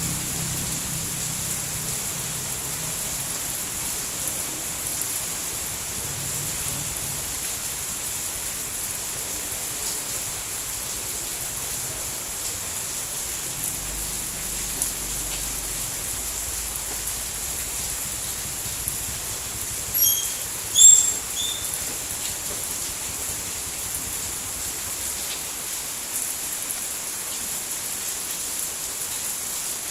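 Steady, even rain hiss. About two-thirds of the way in, a few short high chirps sound over it.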